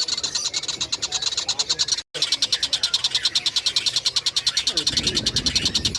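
Tengkek buto kingfisher call recording: a continuous rapid, even chatter of high-pitched notes, about ten a second. It drops out for an instant about two seconds in, and a low rumble joins near the end.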